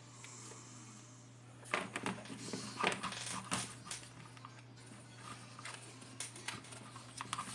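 Irregular clicks and knocks from handling the fan heater and its parts, starting about two seconds in, over a steady low hum.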